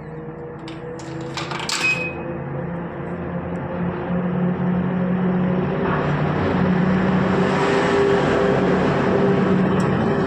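Washing machine running: a steady motor hum under a noisy swish that grows louder over the first several seconds, with a few clicks in the first two seconds.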